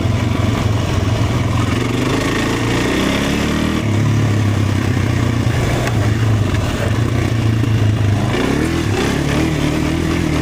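Dirt bike engine running steadily, revving up twice with a rising pitch, about two seconds in and again near the end. The tank is almost empty and the engine has been cutting out under throttle.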